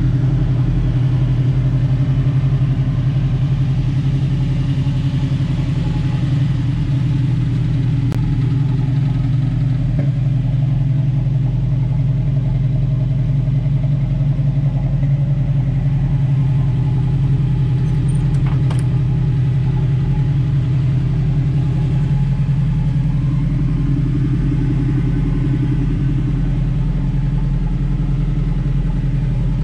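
1974 Buick Apollo's 350 V8 idling steadily, an even low rumble.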